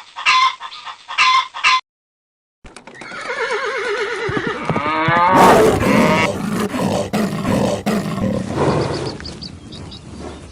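Animal calls: a few short calls in the first two seconds, then, after a brief gap, a long, loud, wavering call that fades near the end.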